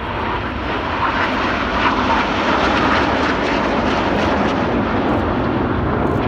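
Military jets flying past in formation, a Panavia Tornado with the Red Arrows' BAE Hawks. Their engine noise grows louder over the first two seconds and then holds steady.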